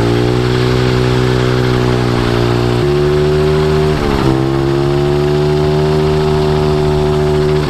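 The 110cc pit-bike engine of a drift trike running hard at high, fairly steady revs, with a brief drop and recovery in pitch about four seconds in, like a throttle lift or gear change.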